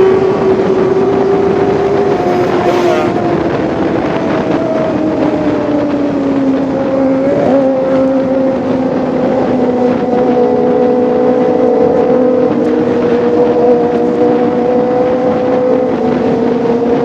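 Kawasaki ZX-25R's four-cylinder engine running at high revs, its pitch easing slowly down over the first several seconds, wobbling briefly about seven seconds in, then holding steady.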